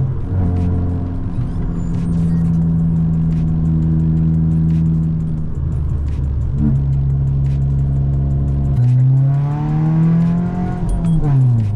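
Volkswagen Golf Mk5 1.4 FSI four-cylinder engine driving along at a steady pitch, shifting in pitch a couple of times, then revving up over about two seconds near the end and dropping back off just before it ends. Scattered faint clicks sit over the engine.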